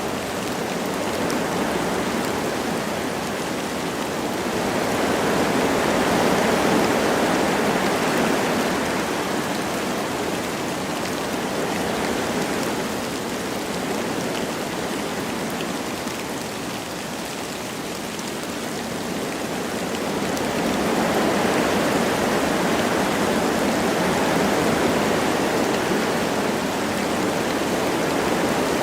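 Wind blowing through forest trees with light rain falling, a steady rushing hiss that swells in two slow gusts, around five seconds in and again after about twenty seconds.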